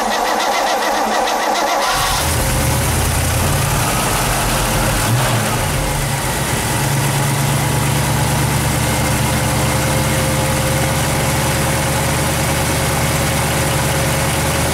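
1967 Pontiac Firebird's 326 V8 cranking on the starter, catching about two seconds in and then running steadily on the choke. This is a cold start after the car sat unstarted for two years.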